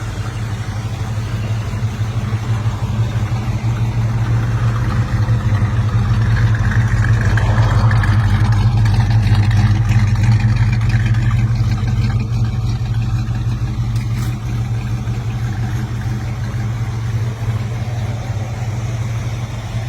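V8 engine of a classic car running steadily, growing somewhat louder for a few seconds in the middle and then settling back.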